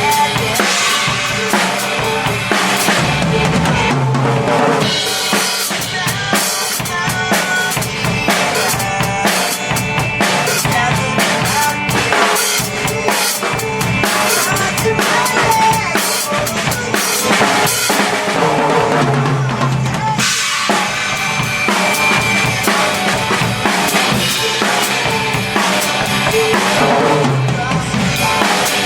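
Drum kit played along with a rock band recording: a steady beat of bass drum, snare and cymbals over the backing track.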